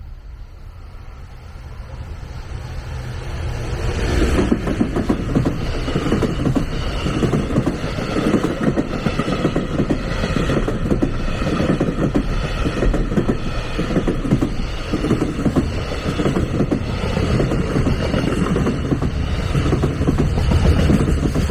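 A train approaching, growing louder over the first four seconds, then passing close by with a steady run of wheel knocks over the rail joints for the rest of the time.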